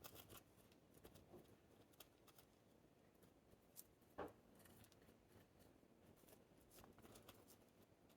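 Faint hand-work sounds of assembling a succulent planting: scattered light clicks and soft rustles, with one louder knock about four seconds in.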